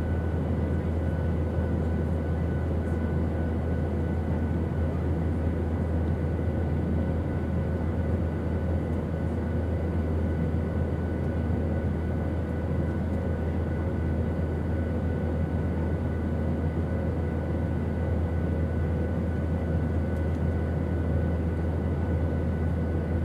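Airplane engine noise as a steady, unchanging drone: a strong low hum under a wide rushing noise, with a faint steady whine above it.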